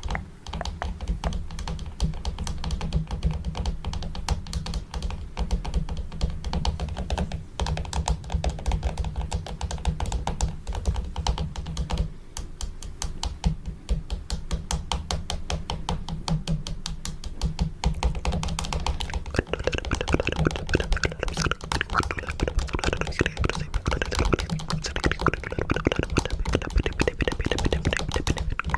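Fingernails tapping rapidly and continuously on a camera and microphone (ASMR camera tapping), each tap a sharp click with a dull thud beneath it. About two-thirds of the way through, the tapping turns brighter and busier.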